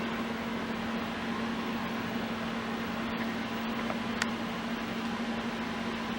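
A steady hum with an even hiss behind it, like a running appliance or fan in a small room, with a faint click about four seconds in.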